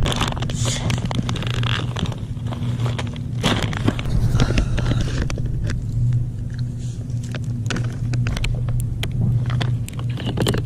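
Steady low mechanical hum with many scattered clicks and crackling rustles over it.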